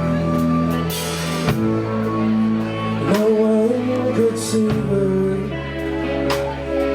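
Live rock band playing a song, with electric guitars and bass holding chords, drum and cymbal hits, and a singer's voice coming in about three seconds in.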